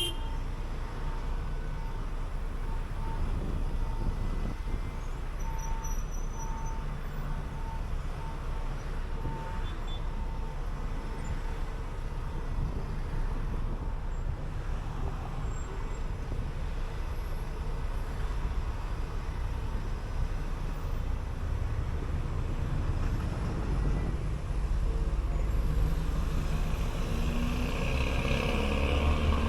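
City bus driving, its engine and road noise a steady low rumble. A short electronic beep repeats at an even pace for about the first ten seconds, and the noise grows louder near the end.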